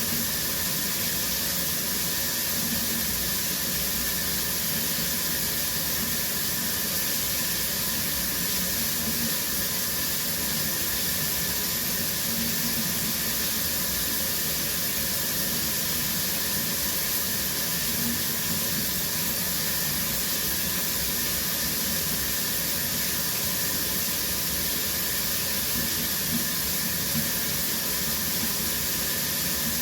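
Shower water running steadily, a continuous spray splashing down.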